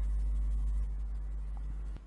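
A low steady hum with faint hiss, stepping down in level about a second in and dropping further at the very end.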